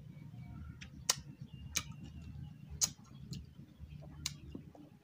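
Wet chewing of watermelon: a handful of sharp mouth clicks and smacks at irregular intervals, over a low steady hum.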